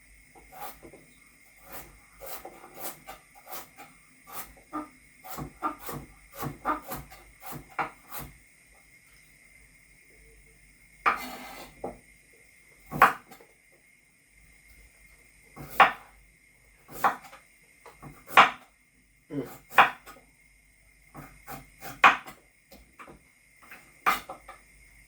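Kitchen prep knocks: a knife tapping and knocking on a wooden chopping board with utensils clattering, in irregular strokes that come thick and fast at first, then fewer and louder in the second half. A brief scraping rush comes about eleven seconds in.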